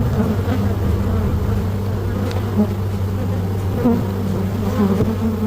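Honey bees buzzing around an opened hive, a steady low hum with a few faint ticks.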